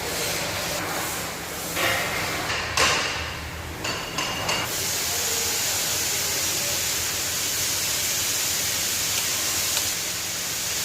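A few sharp metallic clinks and knocks from tools on a car engine, about two to four and a half seconds in, over a steady rushing noise.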